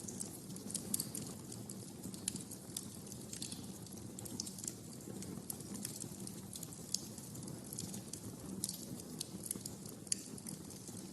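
Wood fire in a fireplace crackling: irregular sharp pops and snaps over a low steady rumble of the flames, with a few louder pops about a second in, near 2 s, 7 s and 10 s.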